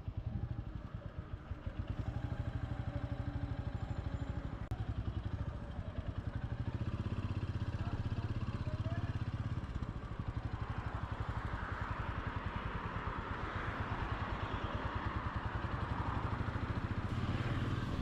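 Royal Enfield Classic 350's single-cylinder engine thumping steadily as the motorcycle pulls away and gets louder under throttle. From about ten seconds in, a rushing wind noise builds over it.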